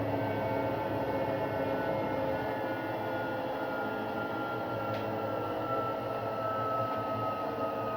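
Arctic washing machine running in service mode: a steady mechanical drone with several whining tones, one of them slowly falling in pitch from about three seconds in, and a single click about five seconds in. It is the kind of noise the owner calls bad.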